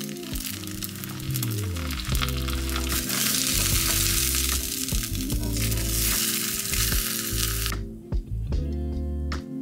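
An egg and shredded cabbage sizzling as they fry in a small cast-iron skillet, over background music. The sizzling cuts off suddenly near the end, leaving the music.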